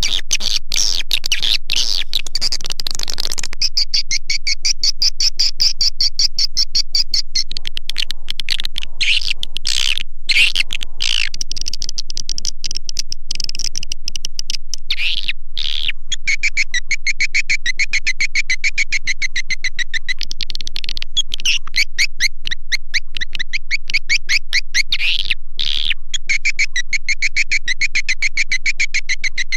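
Swiftlet-luring call recording (suara panggil): a loud, dense stream of rapid, repeated bird-like chirps, high-pitched and evenly level, played through tweeters to attract edible-nest swiftlets to a nesting house. The chirp pattern shifts in pitch now and then, with brief breaks about ten, fifteen and twenty-five seconds in.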